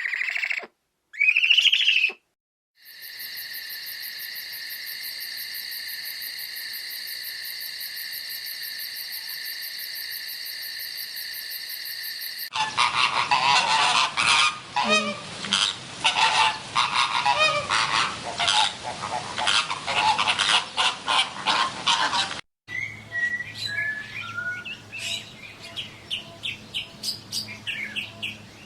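A run of separate animal sound clips: a few loud honking bird calls, then a steady high-pitched buzz for about ten seconds, then a dense chattering of many birds, and near the end scattered bird chirps.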